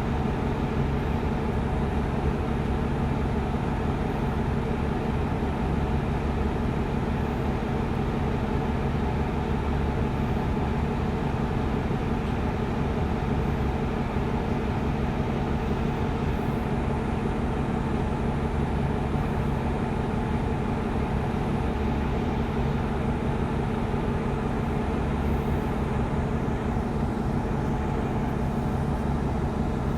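Steady drone of a city bus under way, heard from inside: engine and road noise with a constant low hum.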